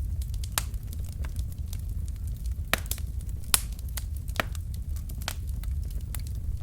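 Wood fire burning in a fireplace: irregular sharp crackles and snaps from the logs over a steady low rumble of the flames, with two louder pops a little under a second apart near the middle.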